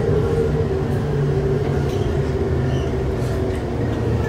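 Passenger train running: a steady rumble with a motor hum that fades out about three and a half seconds in.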